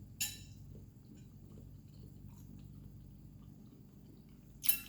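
Quiet chewing of crunchy vegetable chips, with faint small crunches and a sharp crackle just after the start and another near the end, over a low steady hum.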